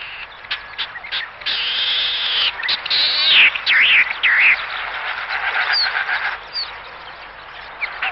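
Wild bird calling: short chirps, then a loud run of rapid calls with swooping notes in the middle, tailing off into scattered chirps.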